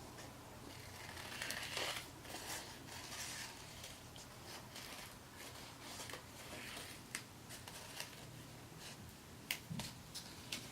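Scissors snipping small circles out of folded construction paper, with faint paper rustling and a couple of sharper clicks near the end.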